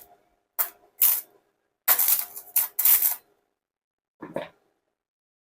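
MIG welding arc on thin stainless steel, struck in about five short crackling bursts under half a second each, like tack welds, with a fainter burst about four seconds in. The Kobe 315 Pro welder is set to low power with its penetration turned down.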